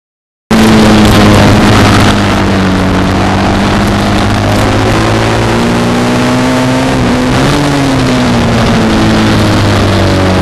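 Racing motorcycle engine running hard on track, starting abruptly about half a second in, its pitch sliding down and climbing again over a loud rushing hiss.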